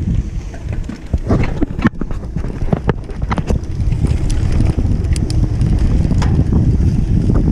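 Mountain bike ridden over rough ground: wind buffeting the microphone, with scattered sharp knocks and rattles from the bike, most of them in the first half.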